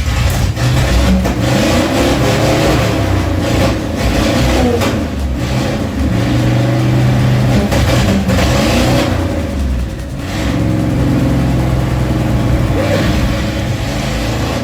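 Old truck's engine running loud and being revved, its pitch rising and falling several times.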